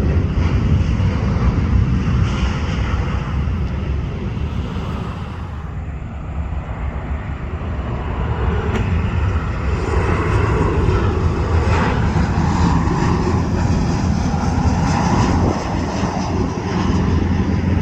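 Jet airliners' CFM56 turbofan engines running steadily. About five seconds in the sound dips, as one aircraft's engines give way to another's, then builds up again.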